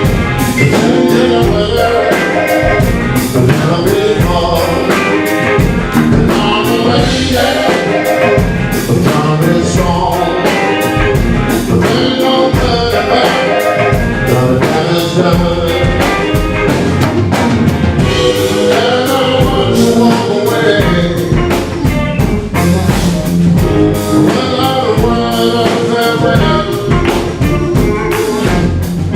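Live blues band playing the song at full volume: a drum kit keeps a steady beat under bass, guitars, keys and a tenor sax and trumpet horn section.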